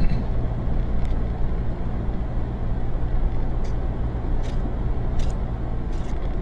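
A motor vehicle's engine running steadily, a low hum with road rumble, with a few faint light ticks now and then.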